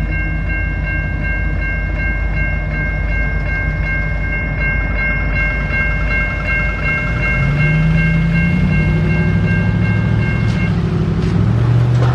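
Alaska Railroad train running, its diesel engine rumbling and rising in pitch about seven seconds in as it throttles up. Steady high-pitched tones sound over it and cut off near the end.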